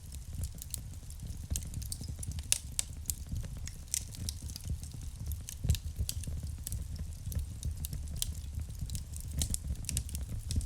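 Wood fire burning in a fireplace: a low steady rumble of flames with irregular sharp crackles and pops of burning logs, one louder pop a little past the middle.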